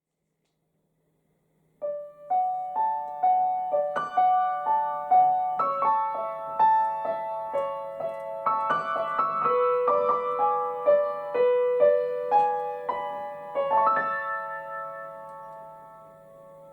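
Piano music: a gentle melody of single struck notes that starts about two seconds in and fades out near the end.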